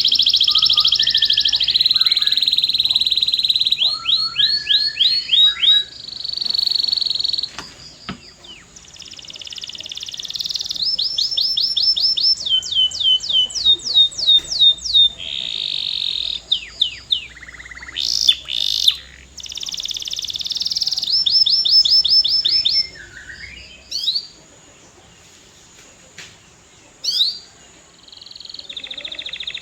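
Domestic canary singing: fast rolling trills and runs of repeated sweeping notes, in phrases with short breaks. Near the end there is a pause of a few seconds broken only by a couple of single notes, then the trilling resumes.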